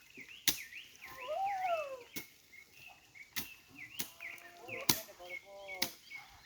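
Sharp chopping strikes, about one every second at an uneven pace, from a tool cutting into vegetation and debris to clear a blocked stream, with high chirping birds behind.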